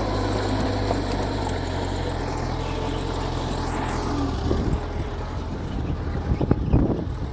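Mitsubishi G2 bulldozer's diesel engine running steadily under load, with a few short knocks in the second half.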